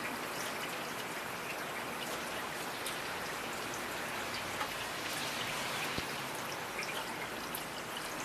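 Steady rain falling, with many individual drops heard as small scattered taps over an even hiss.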